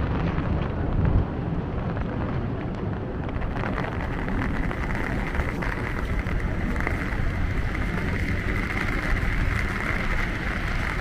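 Steady rain-street ambience: an even hiss of rain and wet traffic over a continuous low rumble, with a higher hiss coming in about three to four seconds in.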